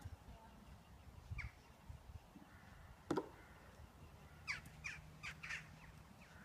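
Birds calling outdoors: short, sharp downward calls, one or two spaced out and then several in quick succession about two-thirds of the way in, over a low wind rumble on the microphone.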